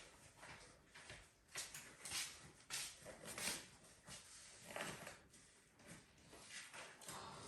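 Faint, irregular rustles and soft knocks of something being handled and moved about, a few each second, in a small room.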